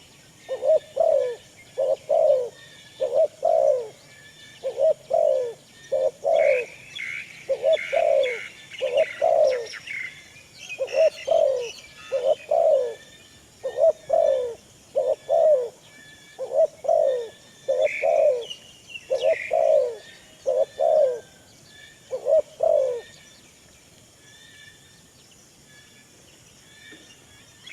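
A bird repeating short low calls in pairs, about one pair a second, which stop a few seconds before the end. Higher, thinner chirps from other birds come in twice.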